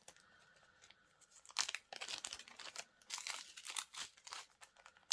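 Small plastic bags of diamond-painting drills crinkling as they are handled, in irregular bursts starting about a second and a half in.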